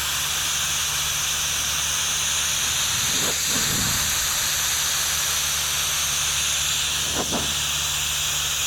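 Compressed-air spray gun hissing steadily as it sprays primer onto the car body, with a low steady hum underneath.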